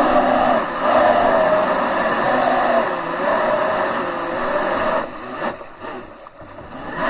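Electric mini jet boat's motor and jet pump whining as the boat runs on the water. The pitch dips and rises with the throttle a few times, fades about five seconds in, and comes back loud near the end.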